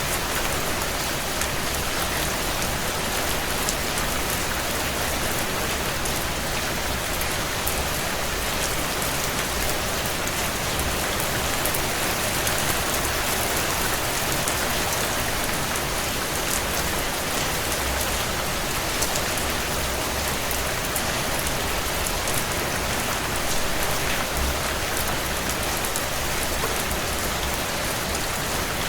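Heavy rain falling steadily against window glass: a dense, even hiss with faint scattered ticks and no let-up.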